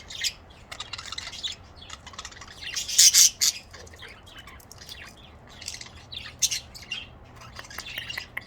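Budgerigars chirping and squawking, short high calls coming thick and fast, with the loudest squawks about three seconds in.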